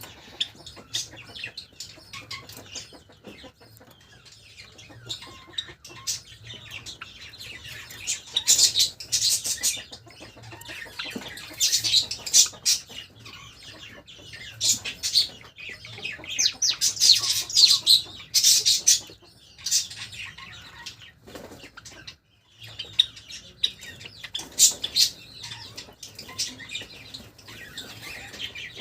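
Pet Java sparrows chirping and fluttering their wings, in busy bursts of short high chirps and wing flaps with quieter stretches between.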